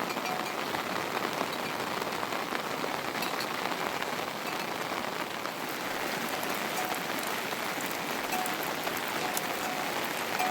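Heavy rain falling steadily: a dense, even hiss sprinkled with many small drop ticks.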